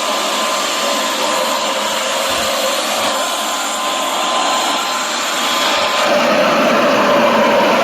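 Private jet's engines running: a steady loud rush with a faint thin whine, the sound growing fuller and lower about six seconds in.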